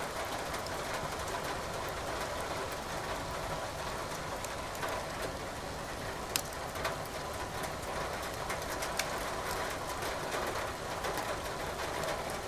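Steady hiss of rain with the sharp, scattered crackles of burning firewood in a fireplace; one crackle about six seconds in is louder than the rest.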